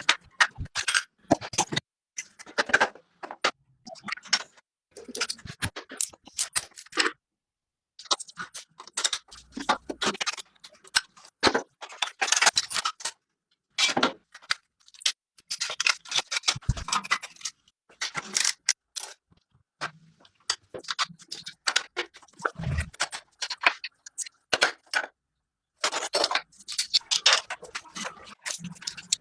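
Metal clinking, knocking and scraping from hand tools working on motorcycle parts, in short separate bursts broken by sudden cuts to silence.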